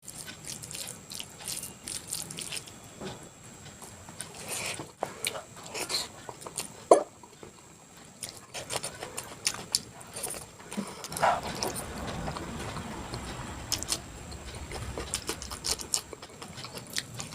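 Close-miked eating sounds: chewing with many irregular mouth clicks and smacks, and one sharp louder click about seven seconds in.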